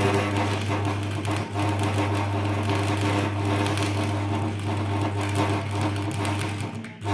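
Electric arc welding: a continuous crackle and sputter from the arc over a steady low hum from the welder.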